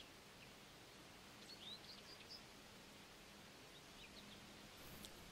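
Near silence: faint outdoor ambience with a few scattered small bird chirps, some about a second and a half to two and a half seconds in and more near the end.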